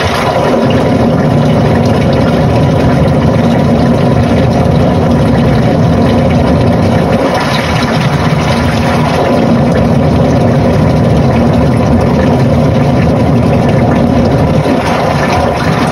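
Panasonic NA-FA80H8 top-loading washing machine running mid-cycle, a loud, steady motor drone with a faint steady hum.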